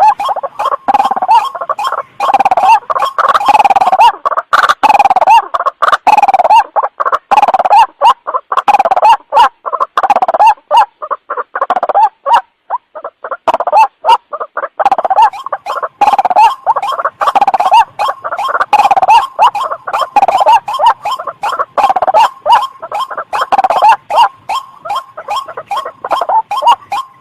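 White-breasted waterhen (ruak-ruak) calling, a lure recording: a loud, rapid run of short calls, several a second, with a brief pause about twelve seconds in.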